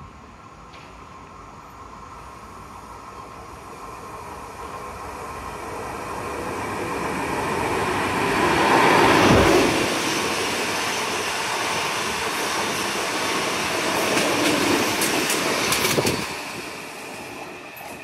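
Pesa Dart ED161 electric multiple unit passing through the station without stopping. It grows louder as it approaches, is loudest about nine seconds in, carries on past with a run of sharp clicks, then falls away near the end.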